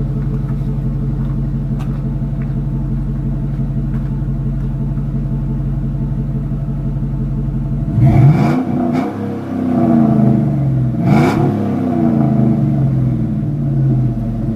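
2008 Chevrolet Avalanche's V8 exhaust with the resonator deleted, idling steadily, then revved twice, about halfway through and again about three seconds later, the pitch falling back toward idle after each.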